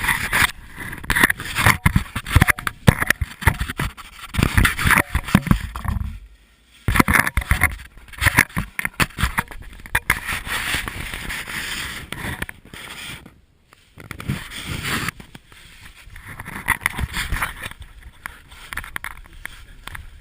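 Irregular scraping and shuffling of bodies and gear moving over rock and rubble in a narrow cave passage, in uneven bursts with a couple of short pauses.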